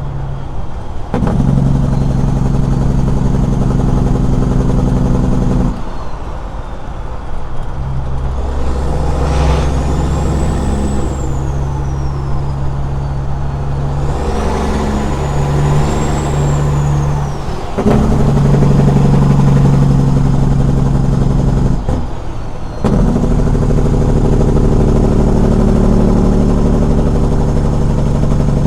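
Straight-piped Caterpillar 6NZ diesel truck engine running loudly under load. Its note holds steady, then changes in steps several times, with short drops in level about 6 and 22 seconds in, as gears are shifted. A faint high whistle rises and falls twice in the middle.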